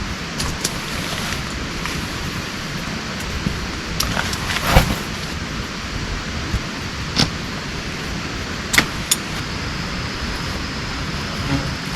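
Steady heavy rain, with a few sharp taps or knocks from heavier drops or handling, the loudest about five seconds in.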